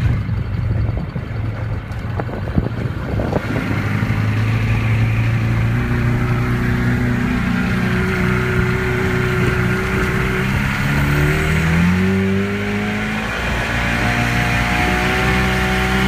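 1963 Mercury 650 four-cylinder two-stroke outboard running without the choke. Its pitch climbs as it is revved about ten seconds in, then settles back to a steady note.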